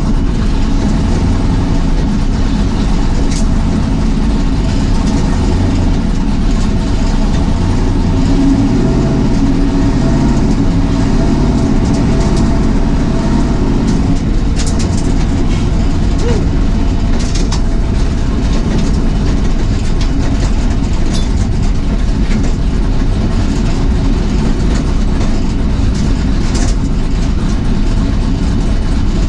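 1978 Camaro drag car's engine running steadily at low revs, a loud low-pitched drone that rises and falls a little in pitch.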